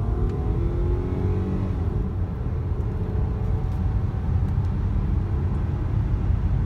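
Inside the cabin of a 1998 Toyota Avalon accelerating on the road: the V6 engine runs at high revs over a steady low road rumble. The engine note rises for about two seconds and then levels off as the automatic transmission shifts up smoothly, with the erratic shifting now cured.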